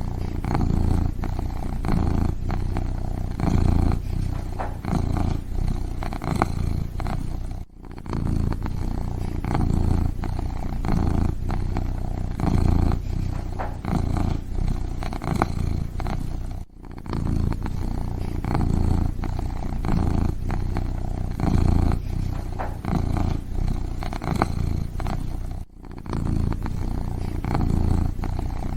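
Kitten purring: a continuous low rumble that swells and eases in pulses, broken by three brief gaps about nine seconds apart.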